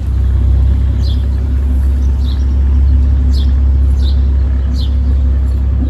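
A barge's engine running with a steady low drone that starts abruptly at the beginning, as the boat gets under way into the lock. Short falling bird chirps repeat faintly above it, about one every second or less.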